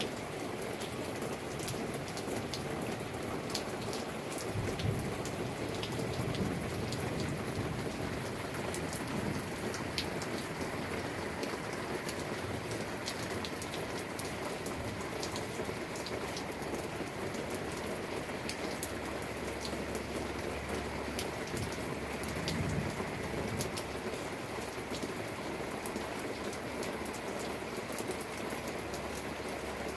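Steady rain falling, with many sharp drop ticks, and low thunder rumbling twice: a few seconds in and again about two-thirds of the way through.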